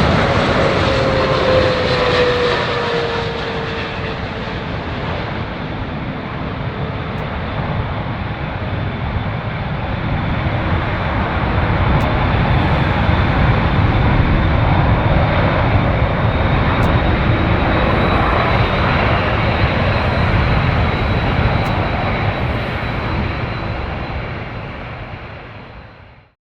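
Boeing 777-300ER's GE90 jet engines on landing: dense jet noise with a whine that falls in pitch over the first few seconds as the aircraft passes, then a steady high whine over the engine noise, which eases, swells again midway and fades away near the end before cutting off.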